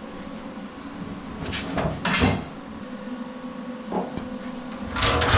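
Knocks and scraping clatters of objects being handled and set down, the loudest a little over two seconds in, a short knock near four seconds and another clatter starting near the end, over a steady low hum.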